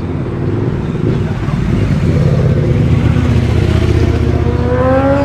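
A sport motorcycle's engine accelerating past: a deep rumble that grows louder, then a climbing engine note over the last second and a half as it revs up.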